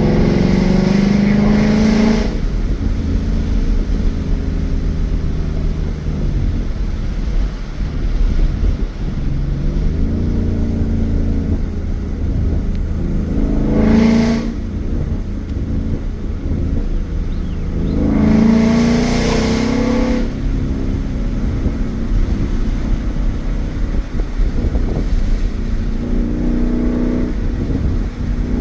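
2015 Ford Mustang GT's 5.0 L V8 through a Roush cat-back exhaust, revved hard three times with the engine note climbing sharply: at the start, about halfway through, and again about two-thirds in. Between the bursts it runs with a steady low drone.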